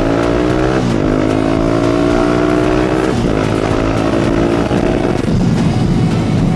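Motorcycle engine accelerating under way, its pitch climbing steadily and dropping sharply twice, about a second in and about three seconds in, as it shifts up through the gears. After about five seconds the steady tone gives way to a rougher rumble.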